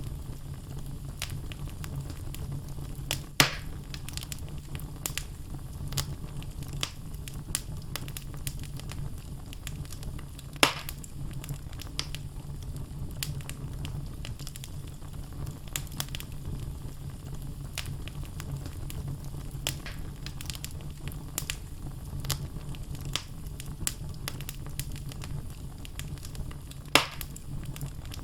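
Wood logs burning in a fireplace, crackling with frequent small snaps over a steady low rumble. Three louder pops come well apart: a few seconds in, about a third of the way through, and near the end.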